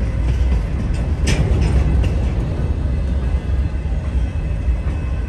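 Freight train of covered hopper cars rolling past: a steady low rumble of wheels on rail, with a sharp metallic clack about a second in and lighter clicks.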